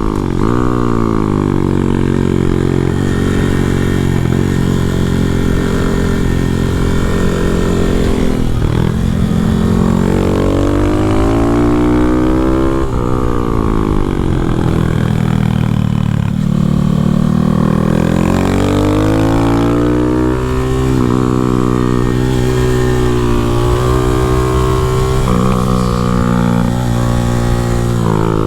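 A 125 cc single-cylinder minibike engine being ridden around a track, revving up and down: its pitch drops and climbs again several times as the rider eases off and opens the throttle.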